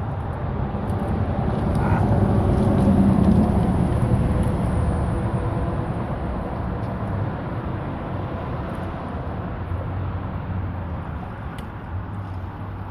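A motor vehicle passing close by: a low rumble that swells to its loudest a few seconds in, then slowly fades.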